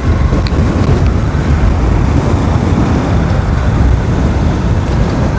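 Steady wind rush on the microphone of a moving motorcycle, with road and traffic noise underneath.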